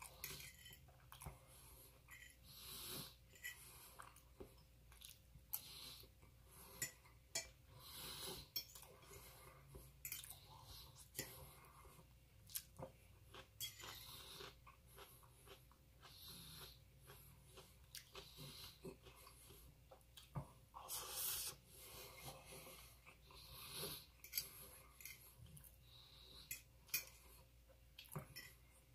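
Quiet, irregular chewing and mouth clicks of a person eating plain rice from a fork, with short breaths between mouthfuls.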